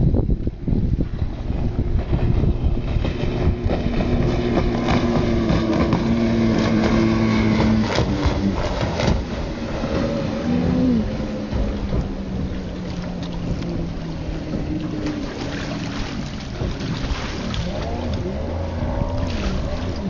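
Freshly rebuilt Evinrude outboard motor running a racing boat at speed. Its pitch climbs over the first several seconds and drops back about eight seconds in, then rises briefly near eleven seconds and runs lower, wavering near the end.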